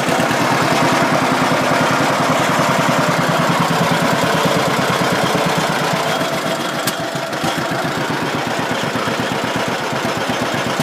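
John Deere Model B's two-cylinder engine idling, freshly started, with an even, rapid popping exhaust beat.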